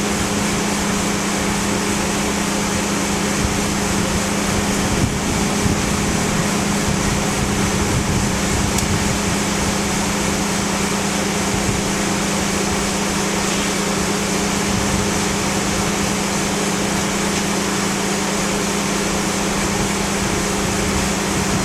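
2001 Toyota Highlander running down the road, a steady low hum over tire and road rush. The owner blames the hum on a leaking, low differential and cupped tires, not the wheel bearings.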